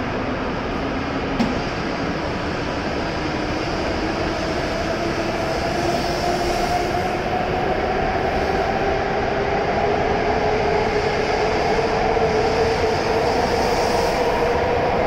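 E7 series Shinkansen train pulling out of the station and gathering speed. Its traction motors give a whine that rises steadily in pitch over the growing rumble of the cars, with a single click about a second and a half in.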